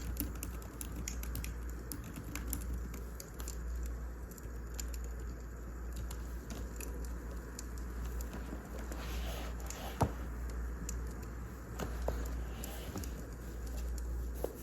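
Wood fire crackling: irregular small snaps and pops over a steady low rumble, with one louder pop about ten seconds in.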